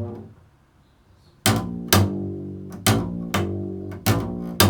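Improvised music on a plucked string instrument. A note rings out and fades, a pause of about a second follows, then a run of plucked notes starts, about two a second, each dying away.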